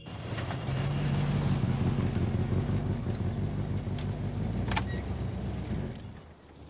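Jeep Wagoneer engine running at low speed as the wagon pulls up and stops, with a sharp click about three-quarters through; the engine sound drops away about six seconds in.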